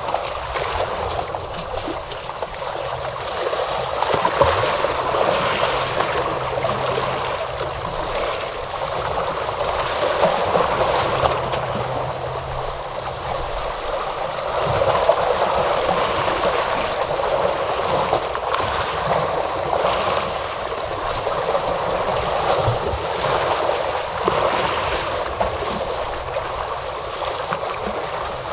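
Ocean surf washing onto a shore, a steady rush of water that swells and eases every few seconds as waves break.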